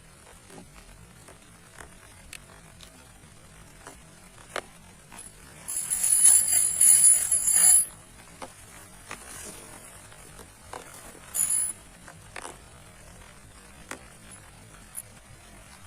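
Scattered faint taps and clicks, broken by a loud, high rasping scrape lasting about two seconds near the middle and a second, shorter one a few seconds later.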